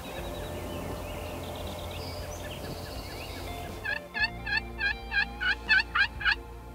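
Turkey calling: a run of about ten loud, sharp notes at about four a second, starting about four seconds in, after a stretch of outdoor background with faint small bird chirps.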